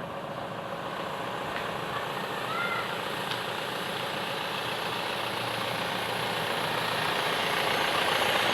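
Mahindra Bolero SLE's engine running at idle during an HHO carbon-cleaning treatment, gradually getting louder. A faint short two-note chirp is heard about two and a half seconds in.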